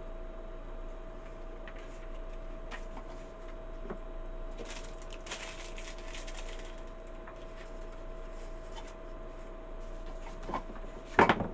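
Keurig K-Cafe milk frother running, a steady hum with one constant tone, under light rustling and a few clicks. A short, loud clatter comes near the end.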